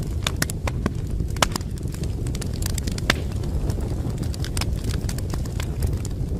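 Wood fire crackling in a fireplace: irregular sharp pops and snaps, a few of them louder, over a steady low rumble of burning logs.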